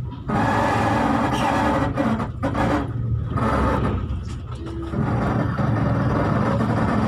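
Running noise of a V/Line passenger train heard from inside the carriage: a steady low rumble under a rushing noise, which dips briefly a few times near the middle.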